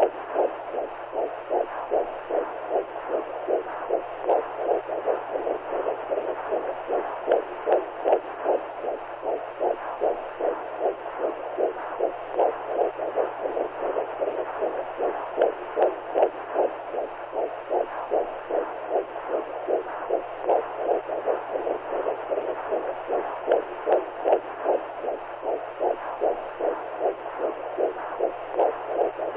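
Womb sound played as white noise to settle a newborn: an even, rapid pulsing rush of noise like a mother's heartbeat heard from inside the belly, over a steady low hum.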